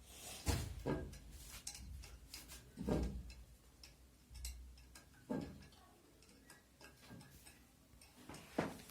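Irregular light clicks and knocks, about a dozen, spaced unevenly over a faint low hum.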